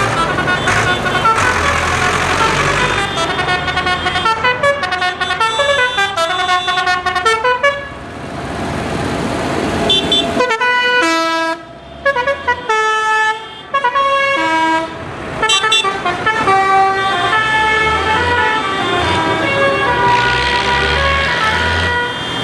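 Tractor engines running low while a horn plays a tune of short stepped notes over them, with a few brief pauses in the melody.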